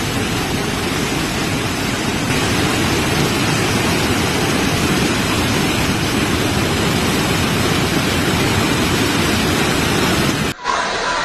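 Heavy rain falling steadily, an even hiss of downpour. Near the end it cuts off abruptly.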